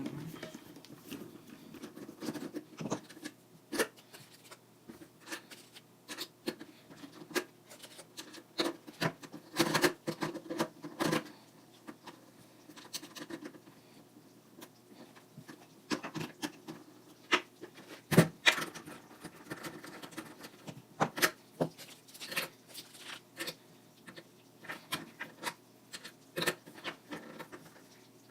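Irregular clicks, knocks and light scraping of skateboard parts being handled by hand as bearings and spacers are pressed into a new Bones Street Tech wheel and the wheel is mounted on the truck axle, with a few clusters of taps and one sharper knock just past the middle.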